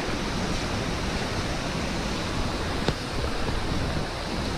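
Waterfall water rushing, a steady, even noise, with one sharp click nearly three seconds in.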